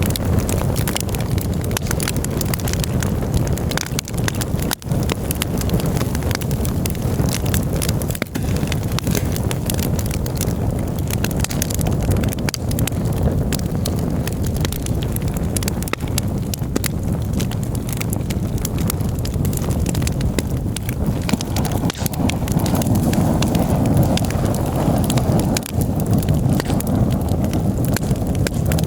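Campfire burning, with dense crackling and popping over a steady low rumble.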